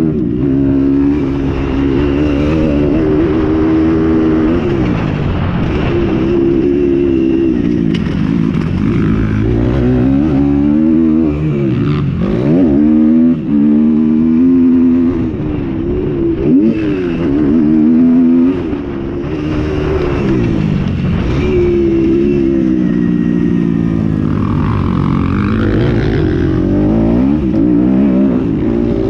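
Motocross motorcycle engines revving hard and falling back again and again, their pitch climbing and dropping every second or two as the throttle is worked and gears change.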